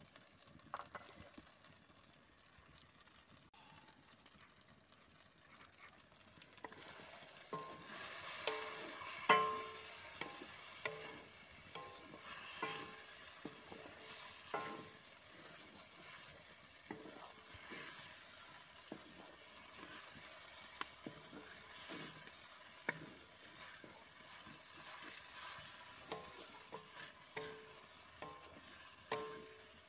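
Flour-and-turmeric-coated cauliflower florets sizzling in hot oil in a metal karahi. From about seven seconds in, a wooden spatula stirs them, scraping and knocking against the pan, which rings briefly at the knocks.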